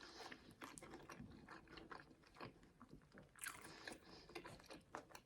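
A person chewing a crispy fried-chicken burger close to the microphone: faint, irregular crunching with small mouth clicks.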